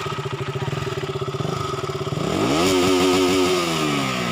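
200 cc single-cylinder motorcycle engine idling with a pulsing beat, then blipped once about two seconds in. The pitch rises quickly, holds for about a second and falls back to idle.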